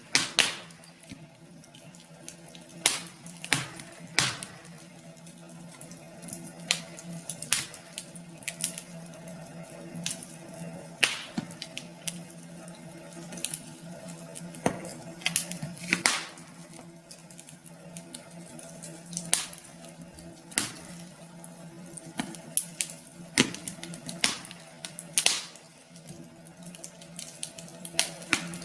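Wood fire crackling, with irregular sharp pops and snaps over a low steady hum.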